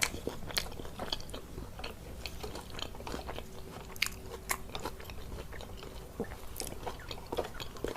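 Close-miked chewing and biting of food, with many irregular crisp crunches and mouth clicks.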